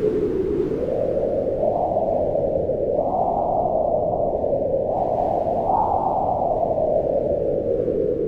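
Steady wind noise, a low rushing whose pitch rises and dips in slow gusts every second or two.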